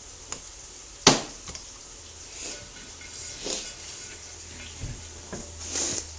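Kitchen handling noises: a single sharp knock about a second in, a few lighter clicks, and soft rustling or scraping of containers and utensils, over a faint low hum.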